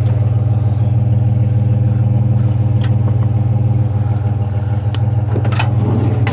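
Vehicle engine idling steadily, with a few metallic clicks and knocks near the end.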